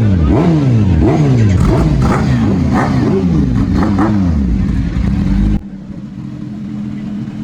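Superbike engine revved in quick repeated throttle blips, about one and a half a second, each rising and falling in pitch. About five and a half seconds in it cuts off abruptly to a quieter steady idle.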